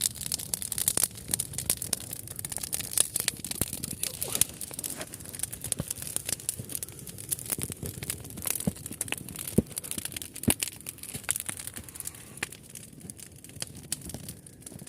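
Wood campfire burning, with irregular crackles and sharp pops from the burning wood.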